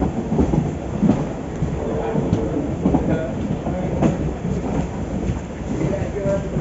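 Passenger train running along the track: a steady rumble with wheels clacking over the rail joints at irregular intervals.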